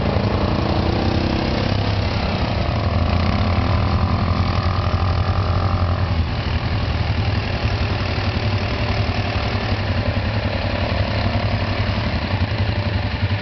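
ATV engine running at low speed. A steady hum holds until about six seconds in, then changes pitch and carries on unevenly.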